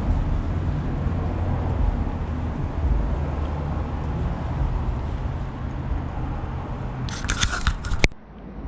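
Steady low rumble of road traffic. About seven seconds in comes a brief stretch of rustling, crinkling handling noise, ending in a sharp click, after which the sound drops suddenly.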